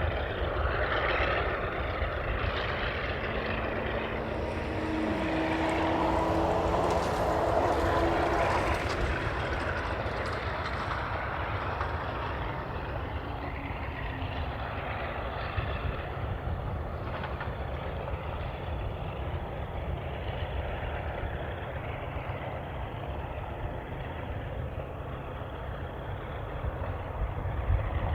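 An aircraft passing by: its engine noise builds, the engine tone drops in pitch about five seconds in as it goes past, and then it fades away. A steady low rumble runs underneath.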